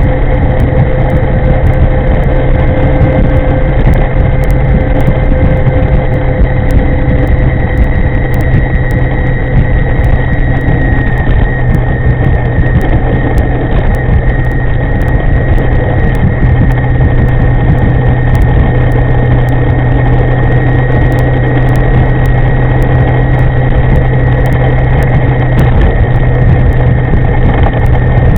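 Steady riding noise from an e-moving EM50 electric scooter with an upgraded V200 drive on the move: loud wind rush and road noise with a thin, steady high whine from the motor.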